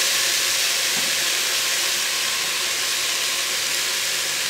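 Grated carrot, onion and freshly added potato sticks sizzling in a little oil in a multicooker bowl on its frying setting, a steady hiss.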